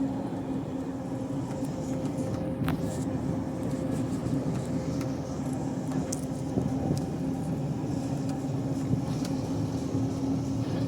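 A heritage diesel train's engine running at a steady pitch, over a continuous rumble, with a few sharp clicks.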